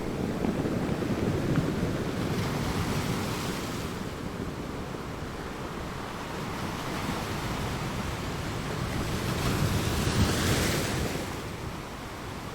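Ocean waves crashing, with two surges of rushing surf: one in the first few seconds and a second, louder one about ten seconds in.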